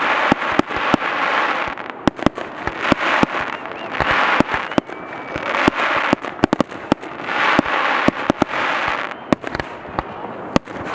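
Fireworks display going off: many sharp bangs from aerial shells, with waves of crackling hiss from the bursts swelling and fading about every two seconds.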